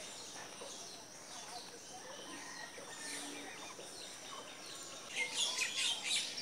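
Small birds chirping, with a louder flurry of quick chirps near the end.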